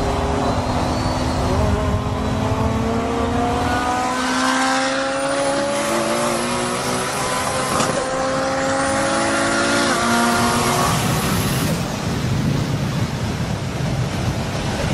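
Car engine accelerating hard, its pitch climbing and then dropping at each upshift, three times in a row. After about ten seconds, a steady rush of wind and road noise takes over.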